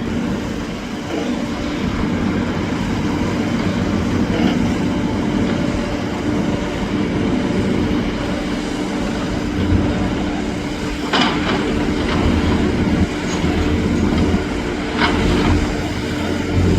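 A motor vehicle's engine running with a steady drone, with two short, sharp sounds about two-thirds of the way in and near the end.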